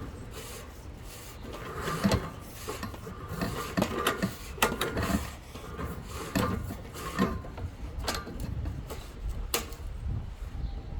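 Drain inspection camera's push rod being fed by hand into a pipe: irregular rubbing and scraping, with sharp clicks and knocks every second or so.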